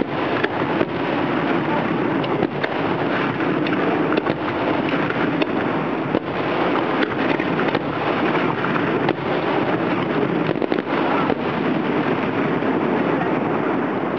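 Fireworks display: aerial shells bursting in a dense, continuous barrage, many sharp bangs and crackles running together into a constant din.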